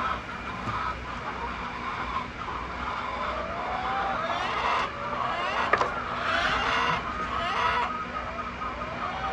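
Hens clucking and squawking in harsh bursts, with a steady low hum underneath.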